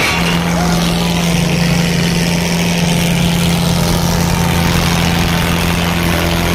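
Tractor diesel engine running steadily, a loud even hum that holds the same pitch.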